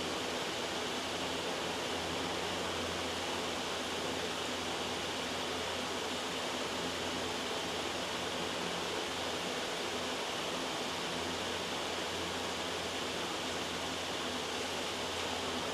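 Loud, steady white noise: an even hiss that does not change.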